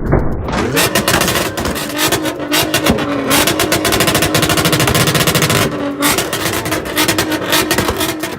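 Car engine revved hard and held at high revs, with loud exhaust. It dips briefly about three seconds in, lets off near six seconds, then comes back up.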